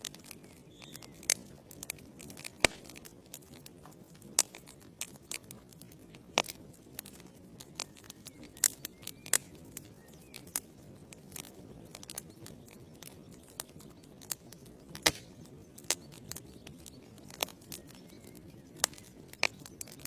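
Wood fire burning in a fireplace: a low steady hiss of flame with sharp, irregular crackles and pops from the burning logs.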